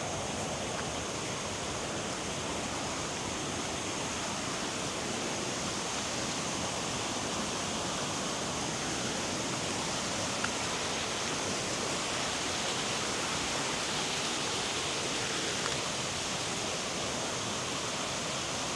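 Steady rush of a waterfall: an even wash of falling water.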